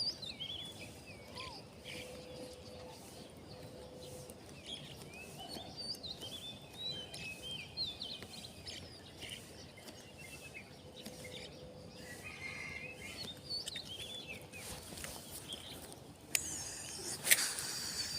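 Small birds chirping repeatedly over steady outdoor background noise, with two short sharp sounds near the end.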